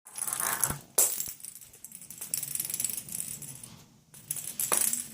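Light metallic jingling and clinking, with sharp clicks, broken by short lulls just before a second in and again around four seconds.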